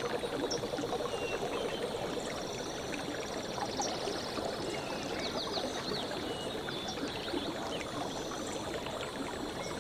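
Steady rush of a running stream, with small birds chirping and trilling over it, most busily a few seconds in and again later on.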